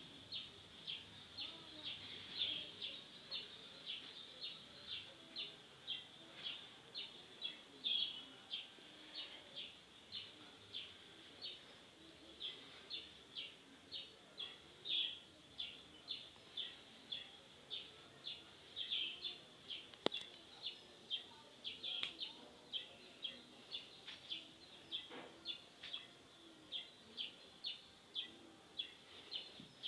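A bird repeating a short, high chirp over and over, about twice a second, faint.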